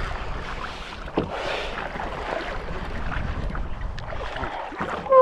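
Water sloshing against a fishing kayak's hull, with wind on the microphone and scattered small knocks. Near the end comes a short pitched sound, the loudest moment.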